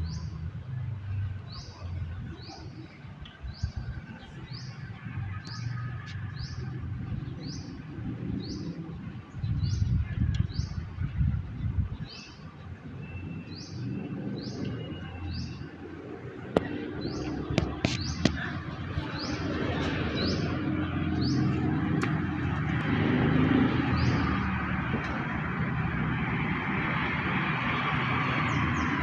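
A bird repeating a short high chirp at an even pace, roughly every three-quarters of a second, which stops near the end. Underneath, gusty wind rumbles on the microphone, and a steady rushing hiss builds over the last several seconds.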